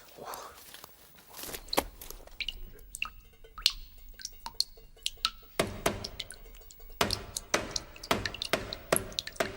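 Water dripping: irregular plinking drops, growing more frequent in the second half.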